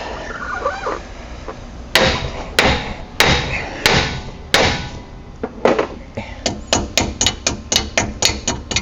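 Hammer striking metal. Five heavy blows come about two seconds in, a little over half a second apart. Near the end there is a quicker run of lighter strikes, about four a second.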